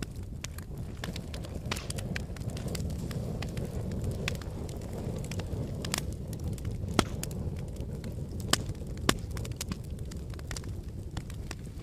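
Wood fire burning in a fireplace: a steady low rumble of flame with frequent small crackles and a few louder sharp pops, the loudest about seven, eight and a half and nine seconds in.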